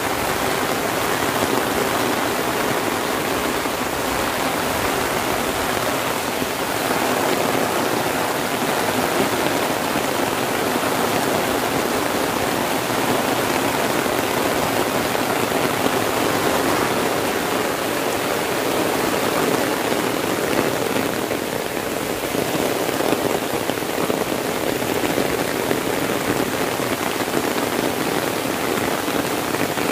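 Heavy rain pouring down steadily on palm trees and dense leafy undergrowth.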